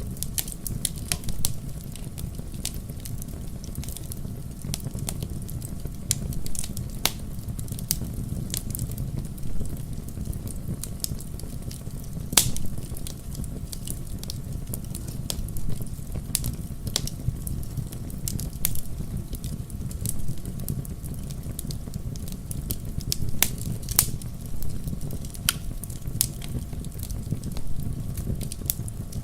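Wood fire crackling in a fireplace: a steady low rumble of flame with irregular sharp snaps and pops, a few of them louder than the rest.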